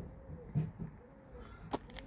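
A dove cooing in soft, repeated rising-and-falling notes, with a sharp click near the end.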